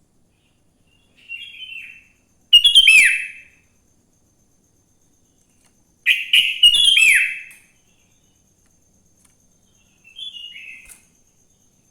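Sooty-headed bulbul singing: two loud, short phrases of quick whistled notes, each about a second long, with two fainter, shorter phrases before and after them.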